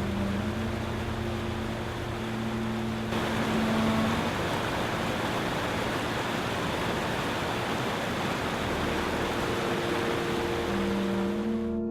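Steady rushing noise under soft ambient music with long, held low tones. The rushing cuts off suddenly near the end, leaving only the music.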